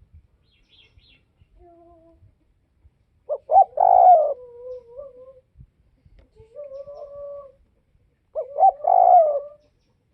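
Spotted dove cooing: two loud phrases about five seconds apart, each a couple of quick short notes followed by a longer falling coo. Fainter, level coos come in between.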